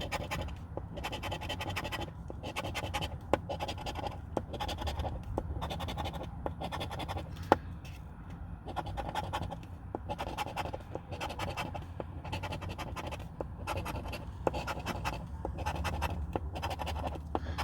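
Scratch-off lottery ticket being scratched, its coating scraped off in a long run of short strokes about twice a second, with a brief let-up about halfway through.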